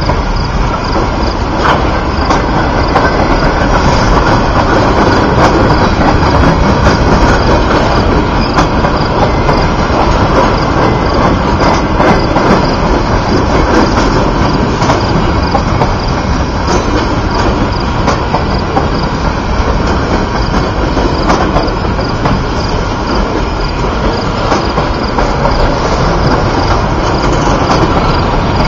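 Gondola cars of a freight sand train rolling steadily past close by: a loud, continuous rumble of steel wheels on rail, with sharp clicks.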